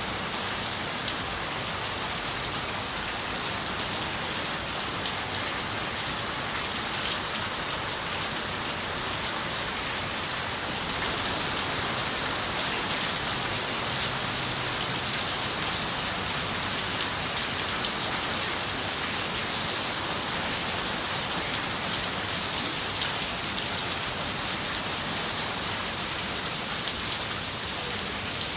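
Steady rain falling on a window, a dense even hiss with scattered individual drop ticks; it swells slightly louder about a third of the way in.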